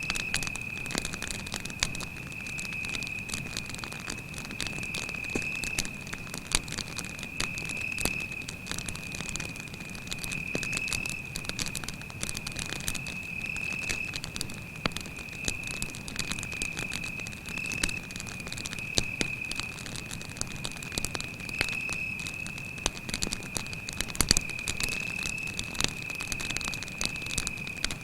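Wood campfire crackling and popping in irregular sharp snaps, with a cricket singing one steady, high-pitched trill behind it.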